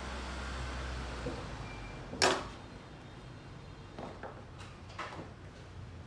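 Workshop handling sounds: one sharp knock or clatter a little over two seconds in, the loudest event, then a few lighter clicks and taps.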